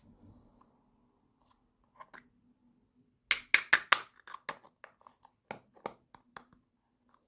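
Sharp clicks and taps of small hard plastic toy pieces being handled, with a quick run of four loud clicks a little after three seconds in, then scattered lighter taps; a faint steady hum underneath.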